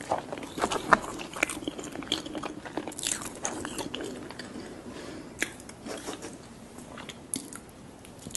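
Close-miked ASMR eating: biting and chewing crisp food, with a dense run of crunches in the first half that thins to scattered crackles later.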